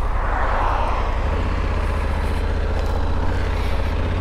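Honda Africa Twin 1100's parallel-twin engine idling steadily while the bike stands, with a brief rush of noise in the first second.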